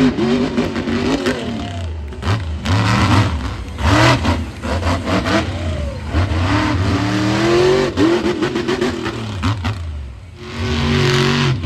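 Monster truck engine revving hard and repeatedly, its pitch rising and falling. About ten seconds in the sound dips briefly, then a steadier engine note holds.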